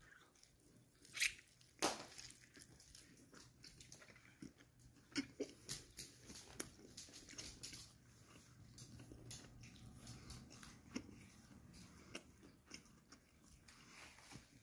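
A person chewing a mouthful of breaded fried chicken topped with marinara, pepperoni and cheese: faint, irregular wet mouth clicks and smacks.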